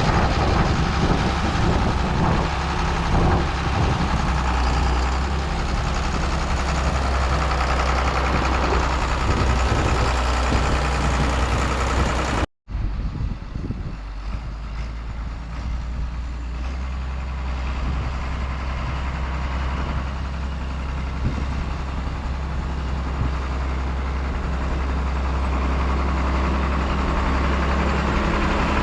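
Diesel engine of heavy earthmoving equipment running steadily while packing fill dirt. About twelve seconds in the sound cuts out for an instant, then carries on somewhat quieter and duller.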